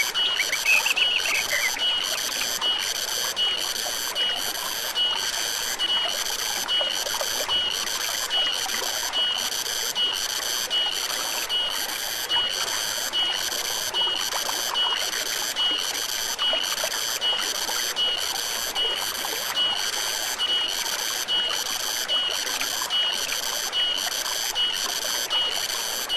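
An insect calling steadily and high-pitched in a regular pulse, about three pulses every two seconds, over the steady rush of a forest stream. A bird chirps a few times at the start.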